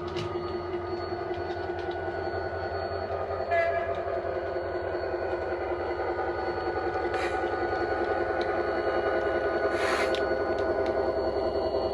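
Sound from a model locomotive's DCC sound decoder on an OO gauge layout: the engine sound runs steadily and grows gradually louder as the loco comes closer. There is a short pitched sound about three and a half seconds in and a brief hiss near ten seconds.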